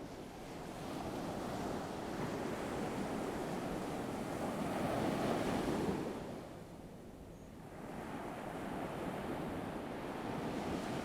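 Ocean surf washing onto a shore: a steady hiss of waves that swells, falls away about six seconds in, then builds again as the next wave comes in.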